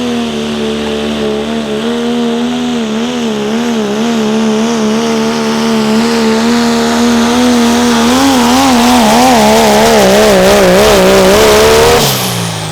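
Diesel pickup truck engine held at full throttle while pulling a weight-transfer sled. Its steady high-revving note starts wavering up and down about two seconds in and grows louder, then is cut off suddenly near the end as the driver lifts off and the revs fall away.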